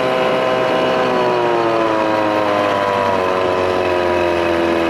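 1993 Evinrude two-stroke outboard, built up from 25 to 35 hp with a bigger intake, running under way, its pitch slowly falling as the engine slows.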